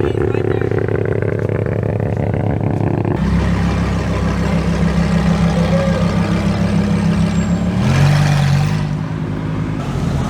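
Car engine running: a lumpy, pulsing note at first, then after an abrupt change about three seconds in a steady low engine note, which rises in a brief rev about eight seconds in.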